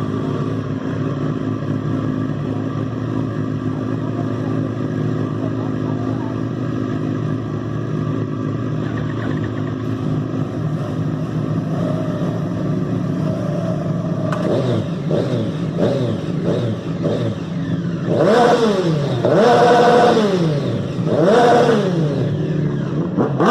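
Sport motorcycle engines idling steadily, then revved up and down in quick throttle blips, with four loud rises in pitch over the last few seconds.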